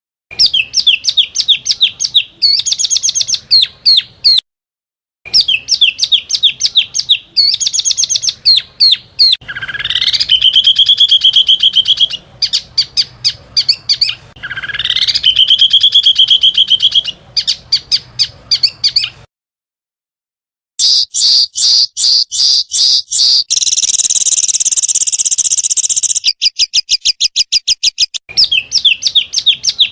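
Small songbirds singing in rapid-fire bursts of high, fast repeated chirps and trills, spliced together with abrupt cuts and brief silences. Two rising whistles climb to a held note about ten and fifteen seconds in, and a buzzy trill comes near the end.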